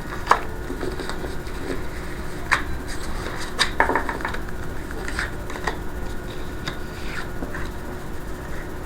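Tarot cards being handled and laid out on a table: a few light, irregular clicks and taps over a steady faint hum.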